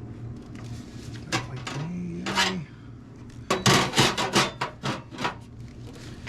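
Hand rasping strokes on sheet metal, the edge of a steel patch piece being filed down. A few separate strokes come first, then a quick run of about eight strokes in the middle.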